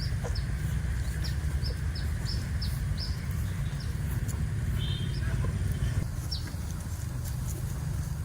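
A bird giving a run of short, high chirps that each slide downward, about three a second for the first few seconds and then one more later. Under it runs a steady low rumble.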